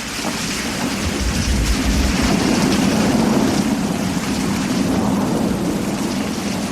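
Steady rain with a rolling rumble of thunder. The rumble swells in just before and is deepest and loudest about one to two seconds in, then carries on under the rain.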